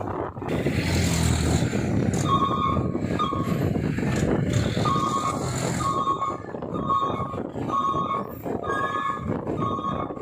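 Heavy truck's reversing alarm beeping about once a second over the steady rumble of its engine, with a rushing hiss through the first half.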